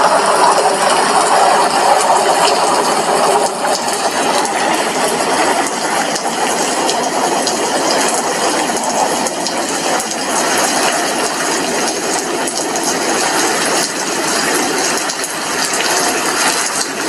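Rain falling steadily on a glass window: a dense, even crackle of countless drops.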